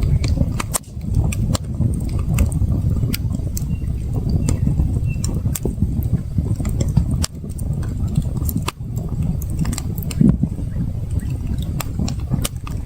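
Campfire crackling, with irregular sharp pops and snaps over a steady low rushing sound.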